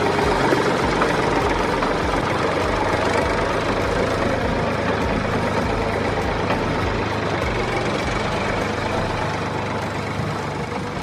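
Heavy engine idling steadily, as on a truck or JCB-type machine, with an even low pulse that eases slightly toward the end.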